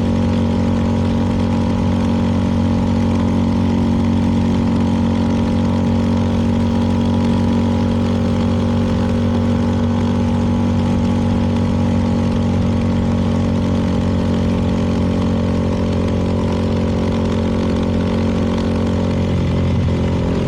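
CFMoto 300NK's single-cylinder engine running at a steady, unchanging speed.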